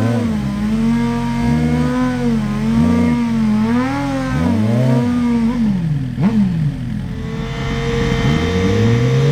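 Suzuki GSX-R1000 inline-four sport-bike engines revved again and again, the pitch rising and falling about once a second, as at the start line before a drag launch. The revving drops sharply about six seconds in, then settles into a steadier, slowly climbing engine note.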